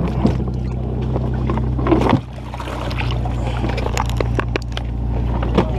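A steady low motor hum, dipping briefly about two seconds in and then slowly building again, with scattered knocks and clicks over it.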